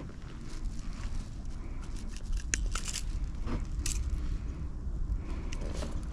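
Wind rumbling on the microphone, with scattered light clicks and knocks, the most around the middle.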